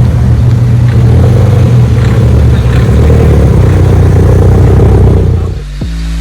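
Car engine running loud and low with a fairly steady pitch. It cuts off suddenly near the end into hip hop music with deep, falling bass drum hits.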